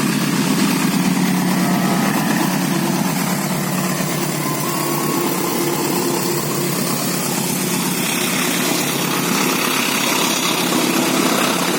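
Train arriving at and passing a level crossing: a steady, continuous engine-and-running noise that hardly changes.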